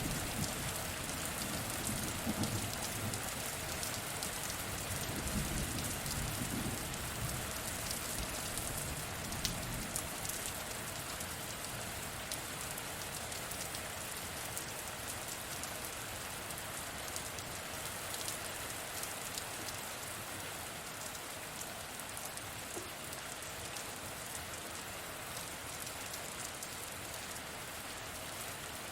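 Steady heavy rain falling, an even hiss of drops, with the low rumble of thunder dying away over the first several seconds.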